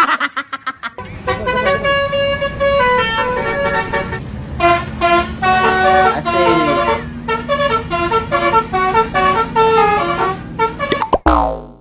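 Indonesian bus telolet horn, a Basuri-type tuned multi-note air horn, playing a melody of short stepped notes over a steady engine hum. Near the end there is a sharp click and a falling tone.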